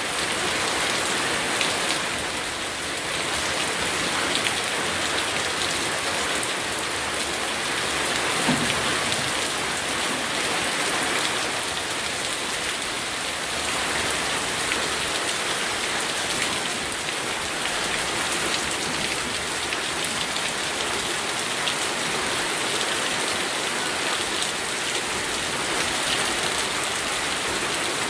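Steady rain falling and pattering on surfaces, with many fine drop ticks; a brief low thump about eight and a half seconds in.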